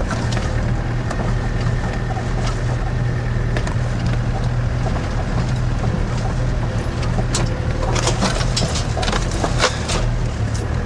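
Land Rover Defender running steadily at low speed on a rough lane, heard from inside the cab as a low drone. A cluster of sharp clicks and knocks comes near the end.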